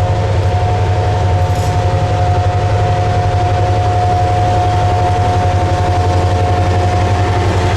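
GP7u diesel-electric locomotive running with a freight train: a loud, steady low engine drone with a fine even pulse, under a steady high-pitched whine.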